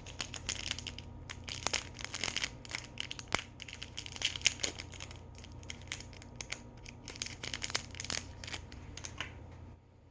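Small plastic packaging crinkling, rustling and tearing as a miniature toy bottle is unwrapped by hand, with many small clicks; the handling stops shortly before the end.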